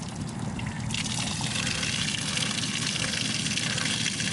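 Water draining out of the hull of a 2007 Sea-Doo Challenger 230, starting to pour out strongly about a second in and then running steadily. This is water that leaked in through the hull during a test run after a Flex Seal repair of a hull crack. A low steady rumble runs underneath.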